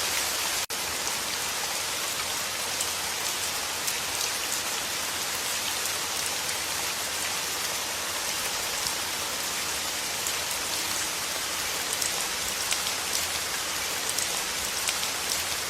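Steady soft rain falling, an even hiss with scattered fine drop ticks. The sound cuts out for an instant a little under a second in.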